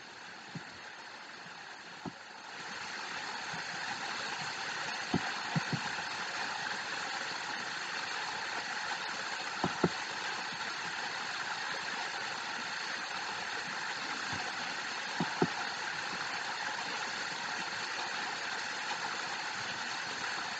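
Waterfall water rushing as a steady hiss, turned up louder about two and a half seconds in, with a few faint clicks.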